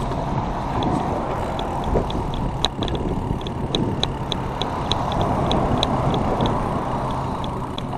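Road bicycle ride: steady wind and road noise, with a light ticking about three times a second.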